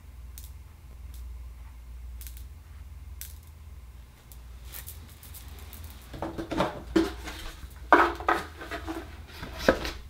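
Akoya oyster shells clattering and knocking together as they are handled on a tabletop: a few faint clicks, then a busier run of knocks over the last four seconds, over a steady low hum.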